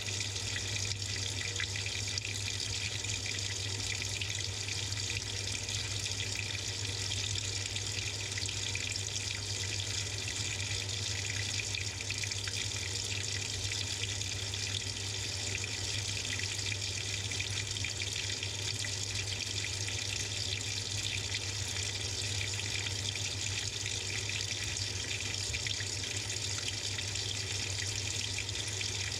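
Water pouring steadily into the drum of a Samsung 6.5 kg top-load washing machine as it fills early in the cycle, heard from inside the drum, with a steady low hum beneath it.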